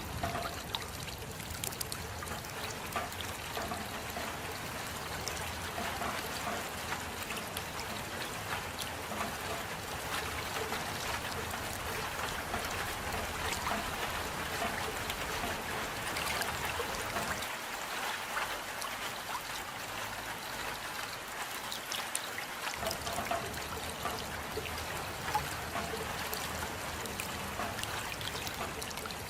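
Steady rain with water trickling and dripping, an even hiss dotted with small drop ticks. A low rumble beneath it drops away for about five seconds in the middle.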